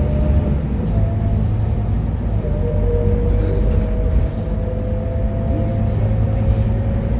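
Scania K230UB bus's five-cylinder diesel engine running under load, with a whine that climbs slowly in pitch from a few seconds in as the bus gathers speed.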